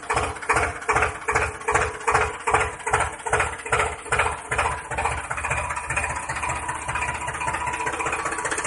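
Engine running with a slow, even chug of about two and a half beats a second, which gives way to a faster, smoother run about five seconds in.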